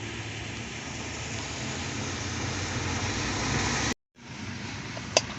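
Steady mechanical running noise with a low hum, growing slightly louder, then cut off abruptly; a sharp click follows near the end.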